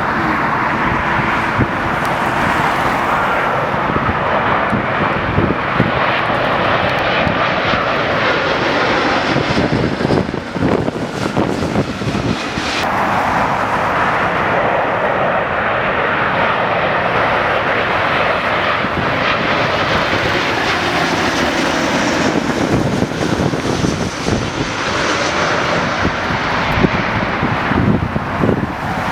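Jet airliner engines rushing loudly as a plane passes low overhead on its landing approach, a steady dense noise that shifts in tone as it goes by.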